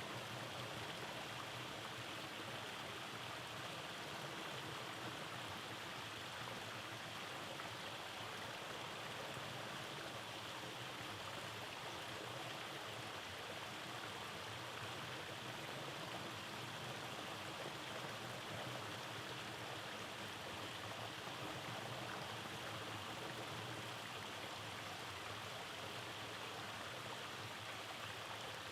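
Rainforest stream flowing over cascades, a steady rush of water.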